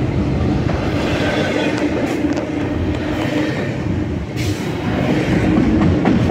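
A double-stack intermodal freight train's loaded well cars rolling past close by: a steady rumble of steel wheels on the rails, with a low hum and scattered clicks and clanks.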